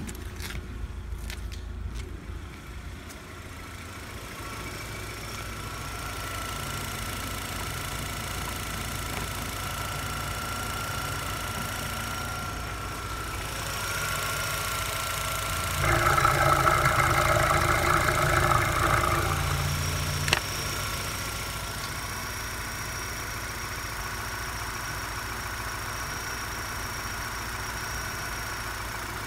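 Opel Omega B's 2.0-litre X20SE inline-four engine idling steadily at about 1000 rpm, heard from the open engine bay. It grows clearly louder for about three and a half seconds past the middle, then settles back, with one sharp click shortly after.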